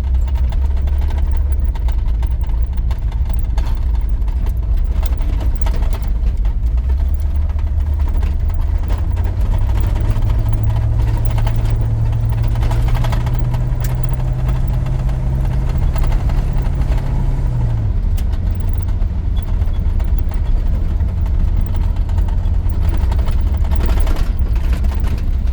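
1983 GMC C2500's 350 small-block V8 running under way, a steady low drone heard from inside the cab. Partway through the engine note climbs a little and holds, then drops off abruptly about 18 seconds in as the revs fall.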